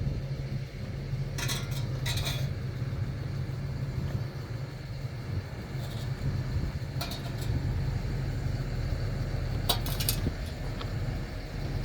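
Steady low vehicle rumble, with a few short light clinks and rattles scattered through it.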